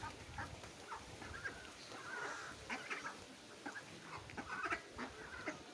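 A flock of ducks calling, with many short, overlapping quacks and chatter in quick, irregular succession.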